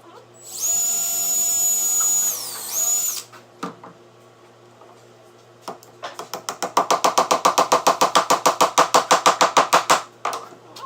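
Cordless drill pre-drilling plywood: the motor spins up with a high whine, its pitch dipping briefly under load before it stops. A few seconds later comes a rapid, even clatter of about ten clicks a second, lasting about four seconds.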